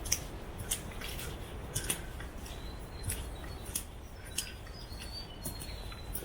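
Footsteps at a walking pace, a sharp crisp step about every two-thirds of a second, over a low wind rumble, with a few faint high bird chirps in the middle.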